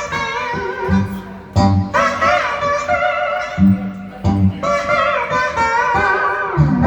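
Blues music on guitar: a wavering, sliding melody line over a few separate low bass notes.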